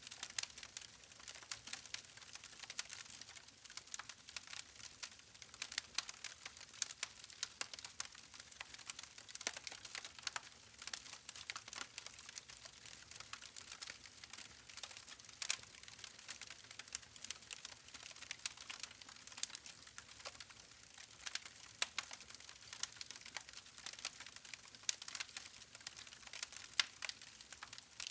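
Wood campfire crackling: a constant run of irregular sharp pops and snaps over a soft hiss from the burning logs.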